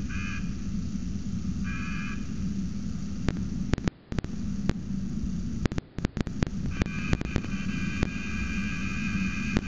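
A cicada buzzing in short spells, a flat, rapidly pulsing buzz, with a longer spell near the end, heard over the steady hiss and hum of the nest-box microphone. The buzzing is typical of a cicada that a peregrine falcon has caught. Sharp clicks are scattered through, with two brief dropouts near the middle.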